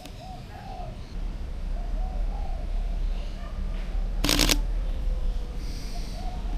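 Doves cooing softly over and over. About four seconds in, a camera shutter fires a quick burst, with a low rumble underneath.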